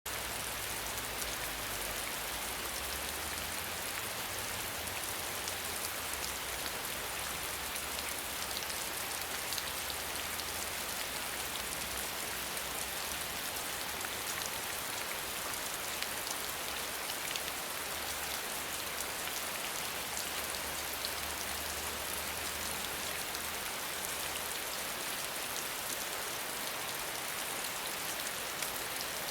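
Steady rain falling: a dense, even hiss of drops with many separate drop taps spread through it, and a faint low rumble that comes and goes.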